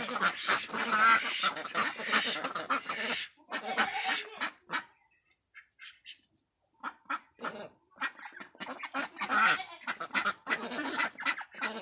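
A flock of domestic ducks quacking together in a dense, overlapping din. It thins to a few calls about four seconds in and nearly stops for about two seconds, then the flock starts up again about seven seconds in.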